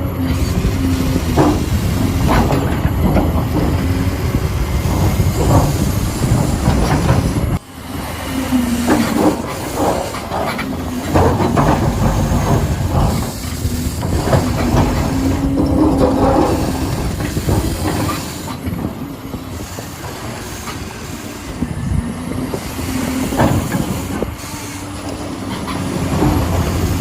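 Huina 1593 radio-controlled excavator working: its small electric gear motors whine in short spells while the metal parts clatter and rattle, with a brief pause about seven seconds in.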